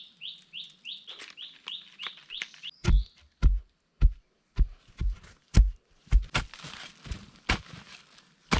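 A bird calls with a quick run of short rising chirps, about three a second. Then a series of sharp, heavy knocks, about two a second, starts about three seconds in; these are the loudest sound.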